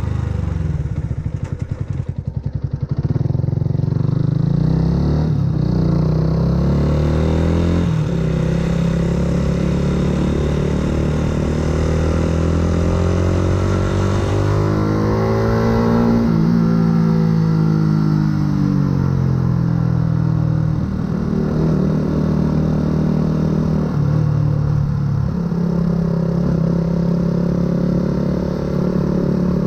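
2008 Yamaha YZF-R125's single-cylinder four-stroke engine, breathing through a full aftermarket exhaust, under way. It pulses at low revs at first, then climbs in steps to a peak about halfway. After that the revs fall back and hold steady, dropping a notch about three-quarters through.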